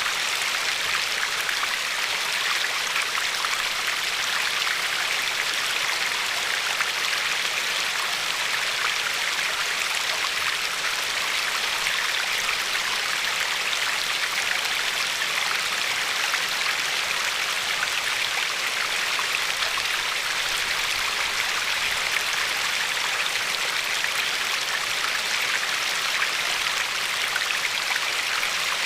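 Steady rush of a river flowing over a pebbly bed, with fine splashing and no pauses or changes.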